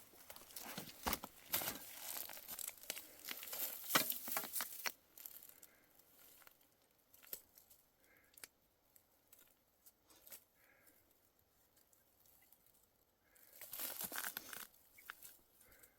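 Crackling and rustling handling noise, made of many sharp clicks and crinkles: dense for about the first five seconds, sparse through the middle, then dense again near the end.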